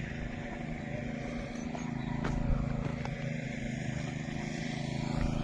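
A motor engine running steadily in a low, even hum, with a few faint clicks.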